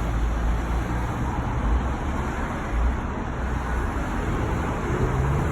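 Outdoor street ambience: steady road traffic noise with a low rumble.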